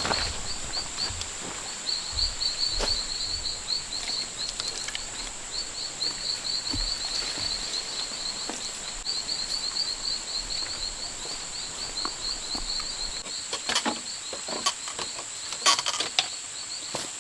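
Rainforest ambience: a steady high drone with a rapid, repeated high chirping over it. A few sharp knocks or taps sound, most of them near the end.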